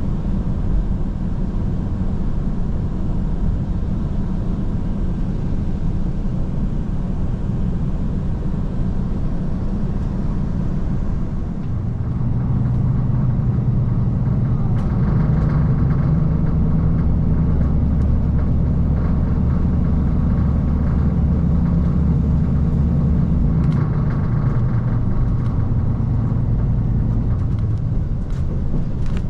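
Cabin sound of a Kiha 185 series diesel railcar: a steady engine and running rumble. About twelve seconds in, the diesel engine comes up under power and runs louder with a deeper drone, easing a little near the end.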